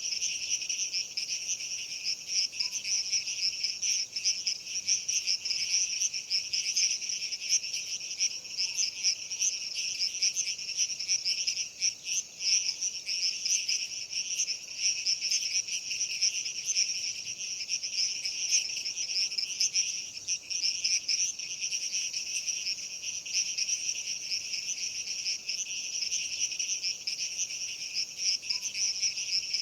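Dense chorus of insects chirping, typical of crickets: a continuous high, rapidly pulsing trill that never lets up.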